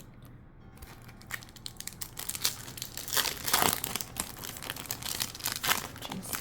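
Foil wrapper of a Pokémon mini booster pack crinkling as it is handled, in irregular crackles that start about a second in and are loudest around the middle.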